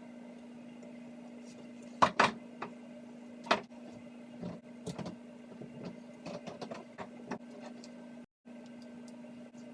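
Handling noises from hair styling with a curling iron: a few sharp clicks and knocks about two seconds and three and a half seconds in, then lighter scattered ticks, over a steady low electrical hum.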